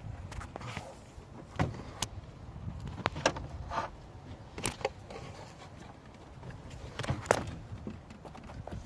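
Scattered sharp clicks and knocks of tools and metal parts being handled while working on a car, about seven separate strikes, over a low steady rumble.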